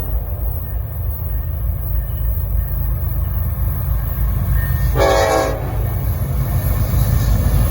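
Train horn sounding one short blast about five seconds in, over a steady low rumble that grows slightly louder toward the end as the train nears.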